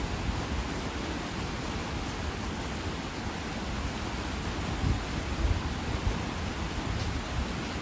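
Steady heavy rain hiss, with a few brief low rumbles about five seconds in.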